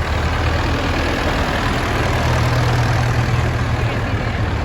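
Tractor engine running with a steady low drone.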